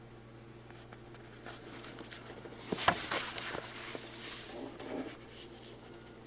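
Paper pages being handled and turned, a soft rustle with a sharp click about three seconds in, over a faint steady hum.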